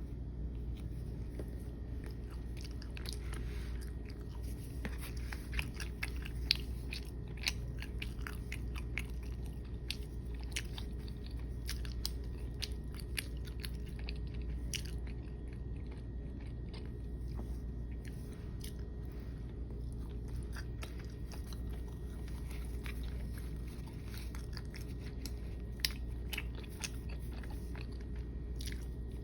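A person biting and chewing naan bread with hummus, with many small sharp mouth clicks spread through the chewing, over a steady low hum.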